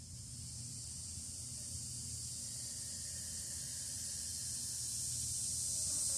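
Insects droning outdoors: a high, steady, hiss-like buzz that swells gradually louder.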